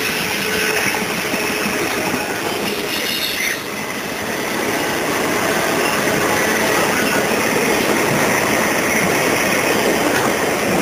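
Freight train's autorack cars rolling past at close range: the steady noise of steel wheels running on the rails.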